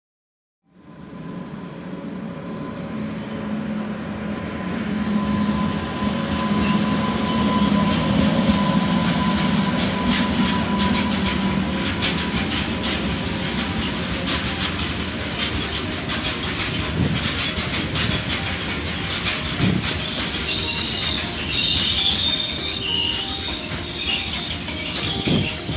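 Freight train of open steel box wagons running past, a steady rumble that swells in over the first few seconds, with a steady high hum during the approach. The wheels clatter over the rail joints throughout, and high wheel squeals come in near the end.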